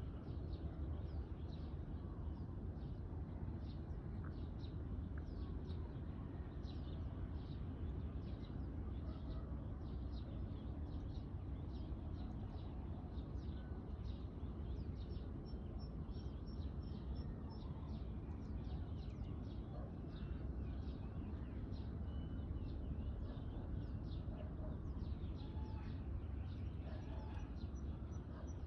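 Many birds chirping, with short overlapping calls throughout and a fast high trill twice, around the middle and near the end, over a steady low rumble.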